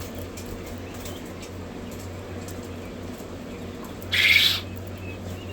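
Young coturnix quail peeping faintly over a steady low hum, then a sudden loud half-second flurry of wing-flapping about four seconds in.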